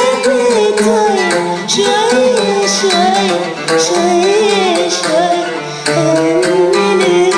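A woman singing an Arabic song in a wavering, ornamented melody over instrumental backing with a drum beat.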